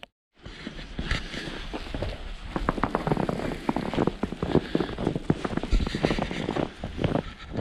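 Footsteps crunching through snow, a quick irregular run of crunches over a steady outdoor hiss.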